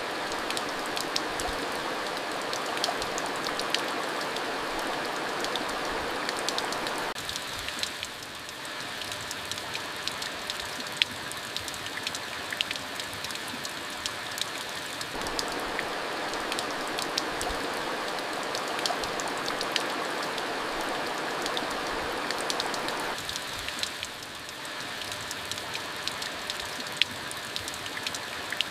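Steady monsoon rain falling, a continuous hiss with many individual drops ticking sharply. The fuller, deeper part of the rain's wash drops away about seven seconds in, comes back about eight seconds later, and drops away again near the end.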